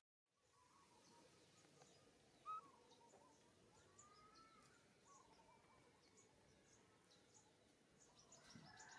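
Faint outdoor ambience with distant birds chirping now and then, short scattered calls and a few sliding notes.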